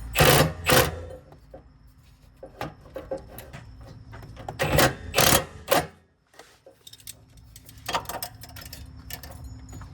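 Impact wrench rattling in short bursts on the car's suspension bolts: two quick bursts right at the start, then three more about halfway through.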